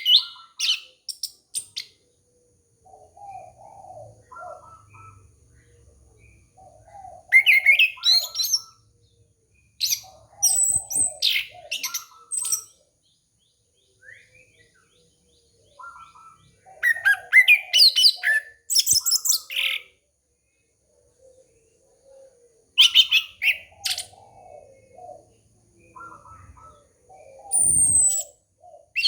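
Orange-headed thrush (anis kembang) singing: loud bursts of varied, rapid high whistles and trills every few seconds, with quieter low chuckling notes between the bursts.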